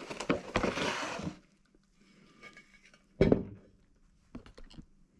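Handling of a heavy cast-iron fireplace part as it is unpacked. Scratchy rustling and scraping for about a second and a half, then a single loud knock a little after three seconds in, and a few light clicks near the end.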